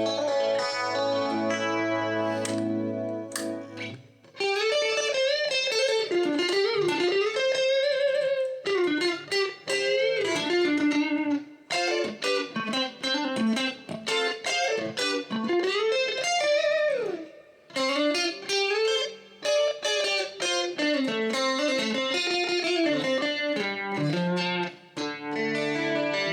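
Electric guitar with a clean amp tone. It rings out chords, breaks about four seconds in, then plays a lead line with string bends and vibrato, and returns to chords near the end.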